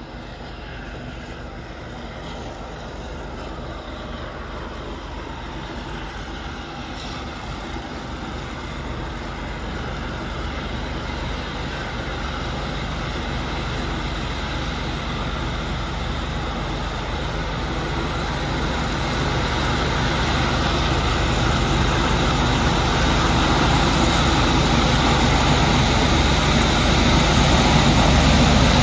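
Approaching CSX rail train, its diesel locomotives running and growing steadily louder as it nears.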